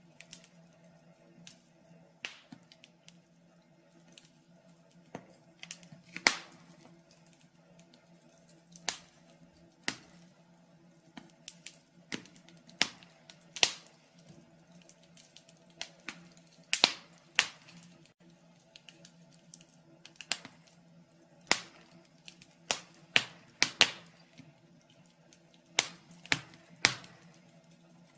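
Fire in a fireplace crackling: irregular sharp pops and snaps, often several close together, over a faint steady low hum.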